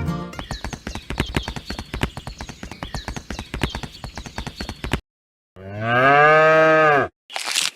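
A fast, dense patter of clicks for about five seconds, then a cow moos once, a call of about a second and a half that rises and then falls in pitch.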